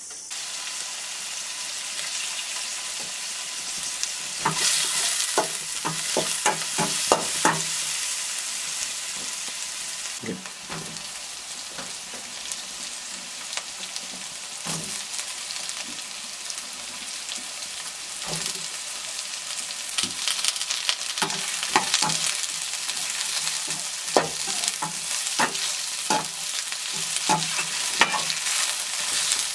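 Chopped ridge gourd, onions and green chilies sizzling steadily in hot mustard oil in a stainless steel wok. A spatula stirs them, scraping and clacking against the metal again and again, most often in the last third.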